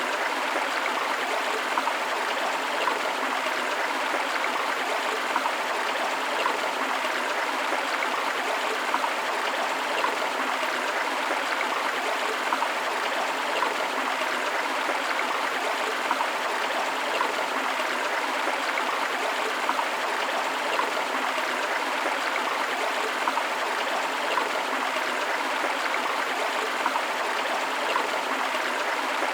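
River water flowing in a steady, even rush that doesn't change.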